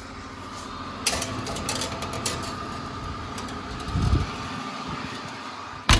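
A fan running steadily with a faint whine, with a few sharp clicks and a low knock about four seconds in.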